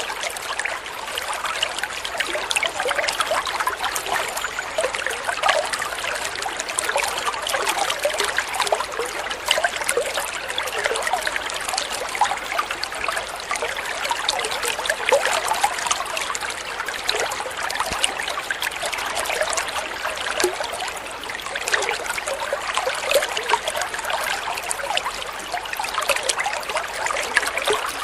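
Flowing water trickling and burbling steadily, a dense patter of small splashes like a shallow stream running over stones.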